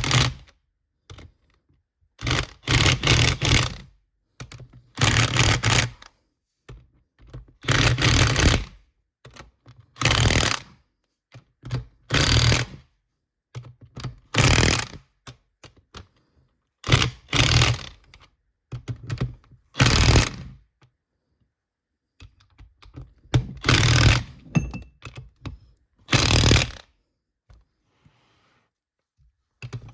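Impact wrench on its maximum setting hammering in short bursts, about a dozen, each under a second and a couple of seconds apart, as bolts are run down one after another.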